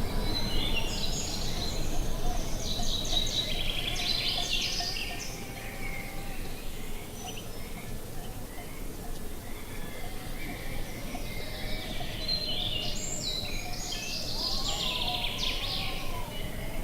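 Songbirds chirping and trilling in two spells, one at the start and one from about twelve seconds in, over a steady low rush of wind.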